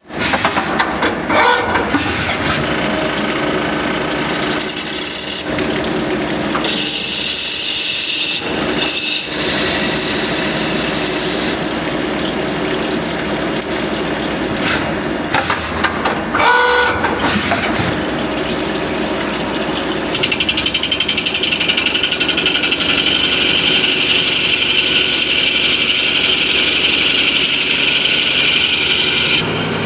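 CNC machine running and cutting: continuous machining noise with a steady high whine that shifts several times, settling into a steadier, brighter tone about two-thirds of the way through.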